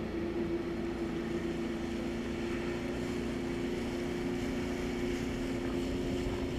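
Jet ski engine running at a steady speed, a constant droning whine with a noisy rush underneath.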